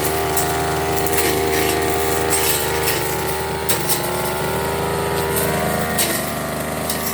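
Firman FGB389FI brush cutter running at high speed, its blade cutting through grass and weeds. The engine note dips about four seconds in and again near six seconds as it takes load, with scattered sharp ticks of the blade striking stems.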